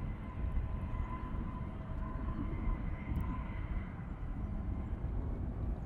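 Jet airliner engines: a steady low rumble with a faint, even whine.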